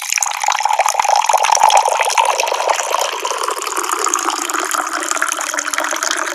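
Water running from a tap in a steady stream, starting suddenly after a moment of silence.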